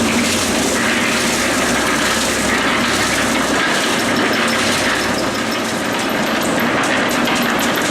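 Electric concrete mixer running, its drum turning and tumbling a batch of concrete in a steady churning rattle over a constant motor hum.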